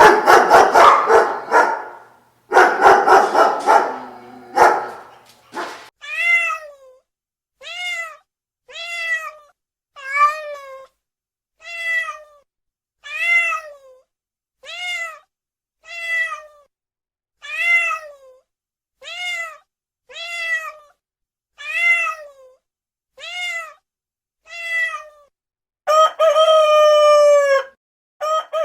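A dog barking in a few loud bursts, then a cat meowing over and over in short, evenly spaced falling calls, about one every 1.3 seconds. Near the end a rooster crows once in a long call of about two seconds.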